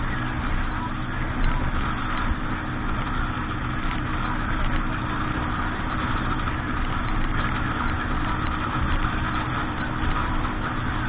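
Boat engine running steadily, with a steady rushing noise over it.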